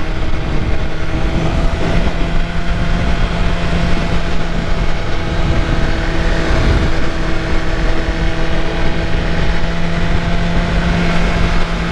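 BMW S1000RR M's inline-four engine running at a fairly steady speed under way, over a dense rush of wind and road noise.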